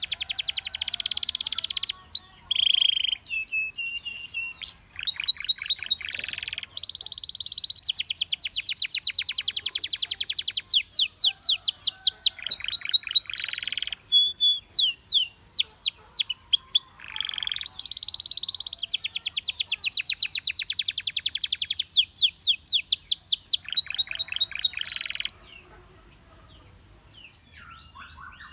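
Domestic canary song: rapid trills of repeated notes and quick falling whistled sweeps, in phrases broken by short pauses. It drops away for a few seconds near the end.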